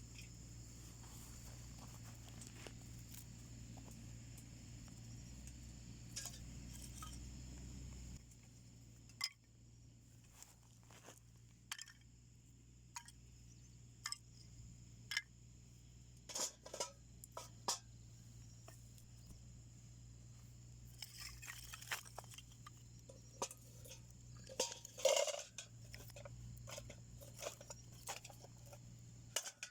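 Wood fire crackling in a homemade wood stove, with irregular sharp pops and snaps; the loudest cluster of pops comes about 25 seconds in.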